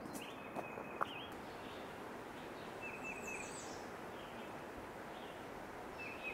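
Wild songbirds calling in short, repeated chirping phrases over a steady hiss of outdoor background noise, with one sharp tick about a second in.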